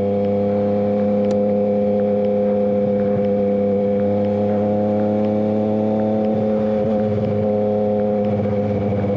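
Motorcycle engine running at steady revs while cruising, its pitch holding level and starting to fall near the end.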